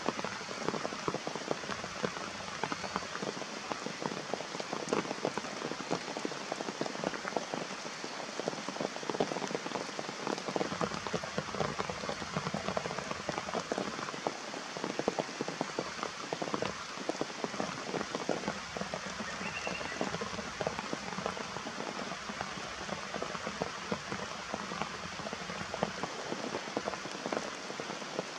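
Steady rain falling, a dense, irregular patter of raindrops hitting surfaces.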